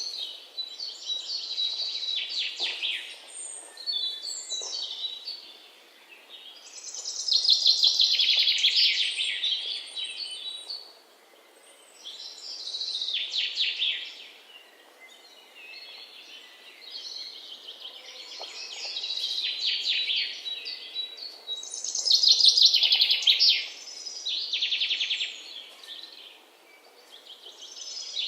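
Alexandrine parakeet chicks calling in repeated bouts of rapid, pulsed chatter, each bout lasting a few seconds with short quiet gaps between, loudest around eight and twenty-two seconds in.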